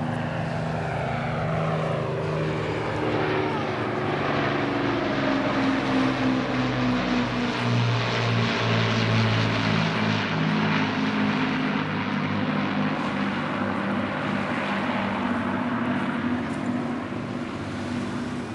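Propeller-driven airplane flying past, its engine drone falling in pitch as it passes and loudest about halfway through.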